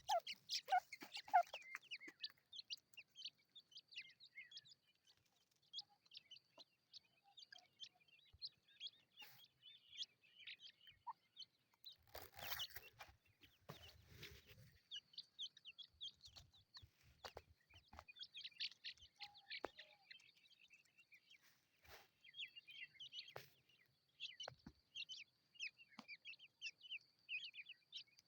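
Partridge chicks peeping: many short, high, faint cheeps scattered throughout. A rustling, knocking noise comes about twelve seconds in and lasts a couple of seconds.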